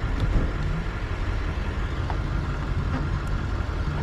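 Steady low vehicle rumble, with a few faint clicks as the plastic release clip on a windshield wiper blade is worked.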